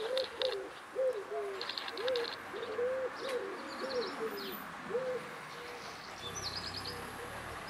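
Birds calling: a run of short, low, arched cooing notes about two a second, with clusters of quick high chirps. The low notes stop about six seconds in.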